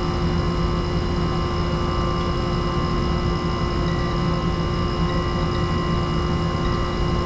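Steady mechanical hum with several constant tones over a low rumble, unchanging throughout.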